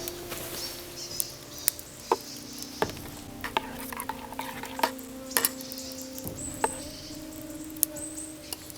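Scattered sharp clicks and clinks of a utensil against cookware, with a faint sizzle, over sustained music tones that shift in pitch about six seconds in.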